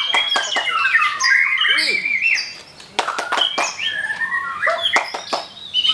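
White-rumped shamas (murai batu) singing together: loud, varied whistled phrases with sliding notes and sharp clicking chips, overlapping from several birds.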